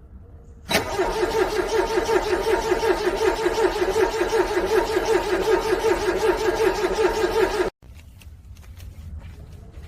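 A car's starter cranking a cold engine in a quick, even pulsing rhythm for about seven seconds without the engine catching, then cutting off abruptly.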